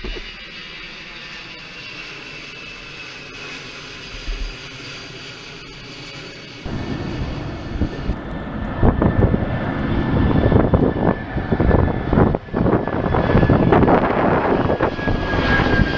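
Jet airliner's engines passing: a steady whine slowly falling in pitch, then about seven seconds in a much louder, rough rushing noise that keeps building toward the end.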